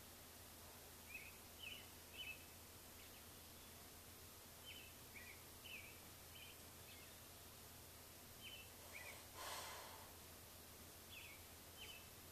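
Near silence with a faint low hum, over which birds chirp in short, scattered high notes. One brief breathy hiss comes about nine and a half seconds in.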